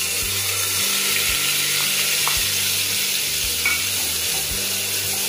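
Onion paste sizzling in hot oil with cumin seeds and bay leaves in a pressure cooker, stirred with a spatula: a steady, even hiss with a few light scrapes.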